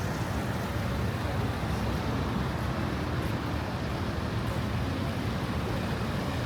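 Steady road-traffic noise on a busy city street, a constant hum of passing vehicles without any single event standing out.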